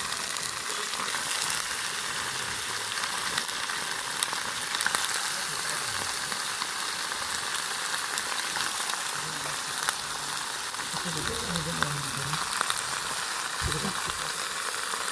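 Chicken curry ingredients frying in hot oil in a pan, with a steady sizzle and scattered small crackles.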